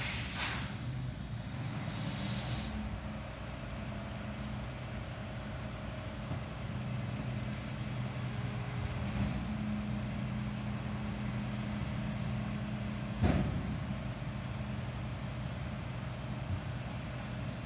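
Garbage truck's diesel engine running steadily, with short hisses near the start and a single sharp knock past the middle.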